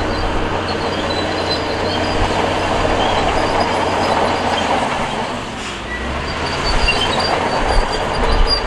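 Crawler bulldozer working: its diesel engine runs under the steady clatter of steel tracks, with short high squeals from the track links. The sound dips briefly a little past halfway.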